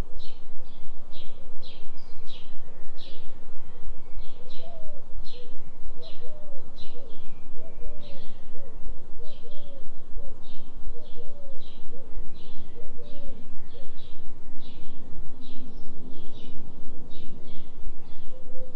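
Recorded forest soundscape of birds: a small bird chirping short, high notes about twice a second, with a lower, hooked call repeating through the middle, over a steady low hum of the delta binaural tone.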